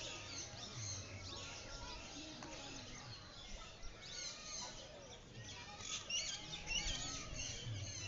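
Birds chirping and calling over a steady background hum, with the calls busiest about six to seven and a half seconds in.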